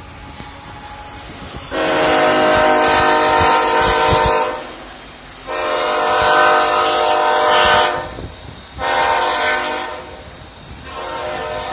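Union Pacific freight locomotive horn sounding two long blasts, a short one, and the start of a fourth longer one near the end: the long-long-short-long grade-crossing signal. The horn comes in about two seconds in over a steady hiss.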